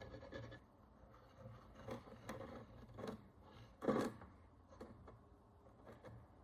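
Scraping at the corroded crust of an ancient bronze coin stops about half a second in. Then come a few light clicks and knocks of small objects being handled, the loudest about four seconds in.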